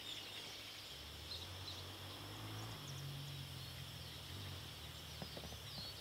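Faint outdoor ambience with a few brief, high bird chirps over a steady hiss.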